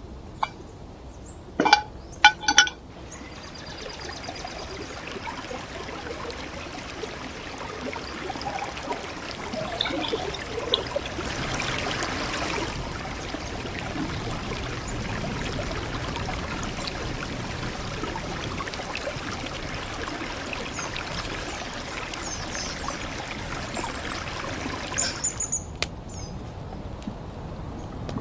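Water running and pouring in a steady rushing flow, louder for a few seconds in the middle, that cuts off abruptly near the end. A few short, sharp high chirps or clinks come just before it starts.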